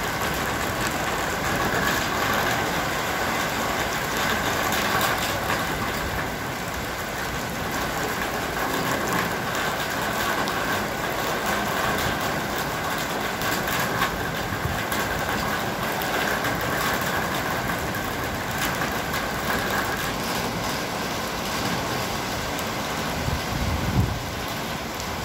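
Heavy rain falling steadily, a dense even hiss with no letup. A brief low thump near the end.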